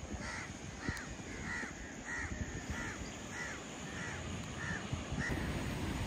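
A bird calling over and over: about nine short, arched calls in an even series, a little under two a second, stopping near the end.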